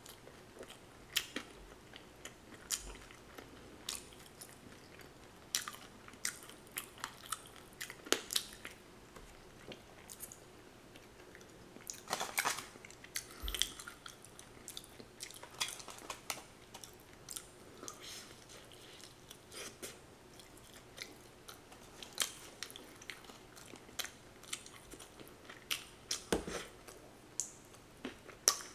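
A person chewing and biting fried chicken wings and drumettes, with irregular crunches and clicks and a longer stretch of crunching about twelve seconds in.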